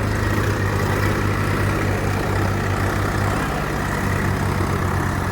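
Diesel tractor engine idling steadily with a low, even running note.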